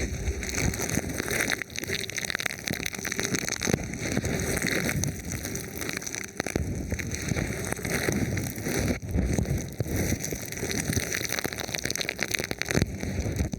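Thin plastic film covering a microphone, rubbed and touched by hand: a dense crackling, rustling noise with a few brief dips.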